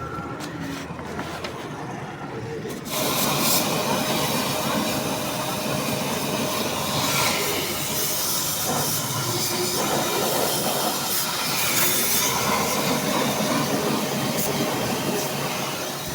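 Pressurised gas hissing hard from a car's air-conditioning lines during an AC service. The hiss starts suddenly about three seconds in and then holds steady, over a low engine hum.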